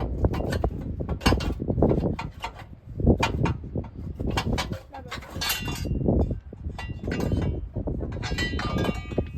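Metal clinking and knocking: tools and engine parts striking one another in quick irregular clicks, with a brief metallic ringing near the end.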